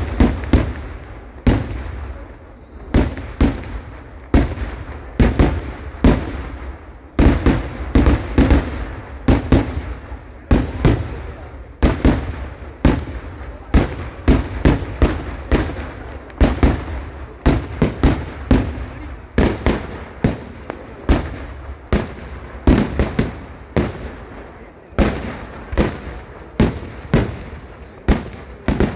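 Fireworks going off in a rapid, uneven barrage of loud blasts, about two or three a second, each followed by a short echoing tail.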